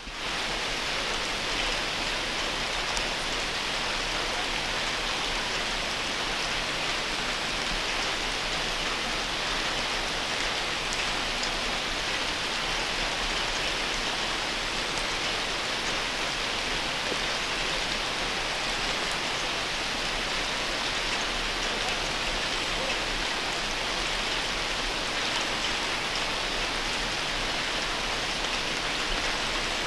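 Steady rain falling on garden plants and the ground, an even hiss with a few separate drop ticks.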